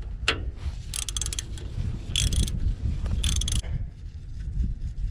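Ratchet wrench clicking in three short bursts as it backs off the torque converter's drain-plug nut, over a steady low rumble.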